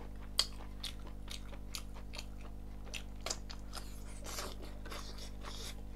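Close-miked chewing of a mouthful of rice and chicken eaten by hand: irregular wet mouth smacks and clicks, the sharpest about half a second in, over a faint steady hum.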